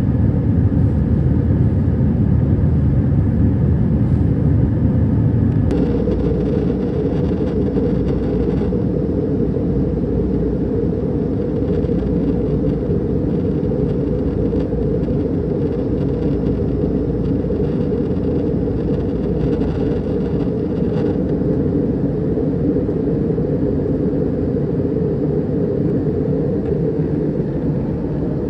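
Passenger airliner cabin noise: a steady, loud rumble of engines and airflow heard from inside the plane. About six seconds in the deepest rumble eases and the sound settles into a steadier, higher hum.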